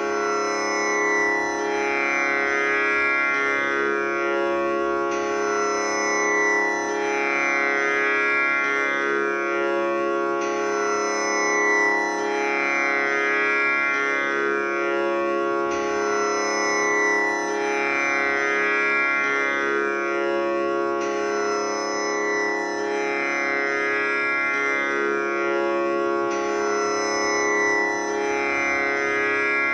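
Tanpura drone tuned to C#, its strings plucked in a steady cycle that repeats about every five seconds, each pluck ringing on into the next.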